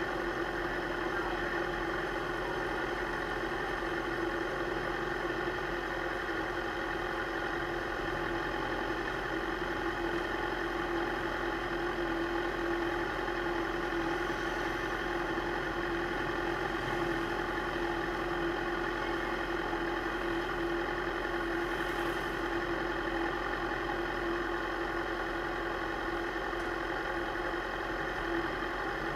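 Suzuki GSX-R600 K7's inline-four engine idling steadily, with no revving, picked up by a camera mounted on the bike.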